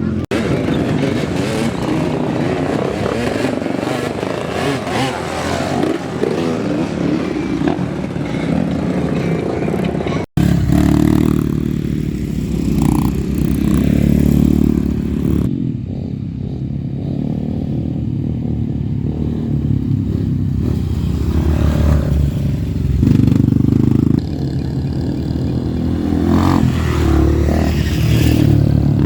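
Off-road trail motorcycle engines running and revving, with a sudden cut about ten seconds in.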